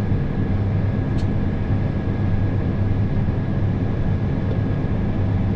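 John Deere 8320R tractor engine running steadily under load, heard from inside the cab, as a low drone with a thin steady high tone over it. There is one faint click about a second in.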